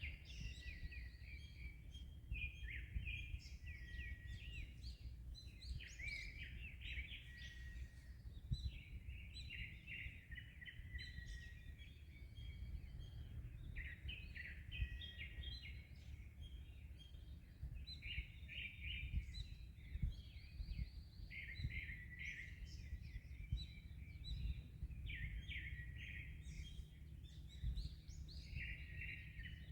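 Many birds chirping and singing at once in a dense, unbroken chorus of short calls, over a low steady rumble of wind and waves.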